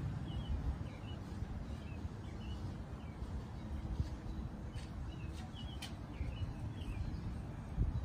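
Short, high bird chirps repeat every second or so over a steady low outdoor rumble, with a few sharp ticks about two-thirds of the way in.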